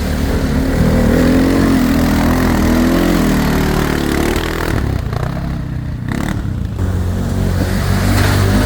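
ATV engine running under throttle, its pitch rising and falling, with a brief drop in level a little after the middle.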